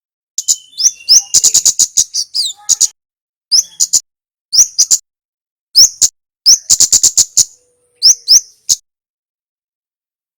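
A kemade songbird giving bursts of sharp, high chip notes, rapid rattling runs mixed with short upward-slurred whistles, broken by brief pauses. This is a looped song recording played to train caged birds to sing.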